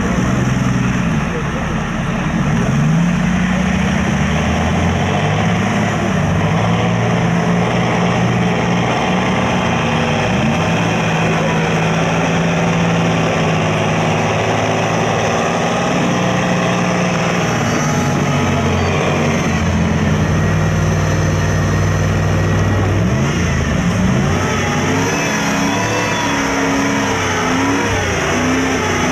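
Off-road truck engines running hard under load, the revs rising and falling again and again.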